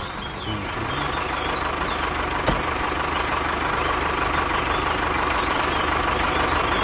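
Tractor engine running steadily, slowly growing louder, with one sharp click about two and a half seconds in.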